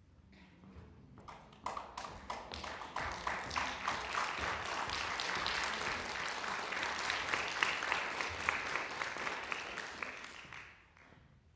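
Audience applauding, building about a second and a half in and dying away near the end.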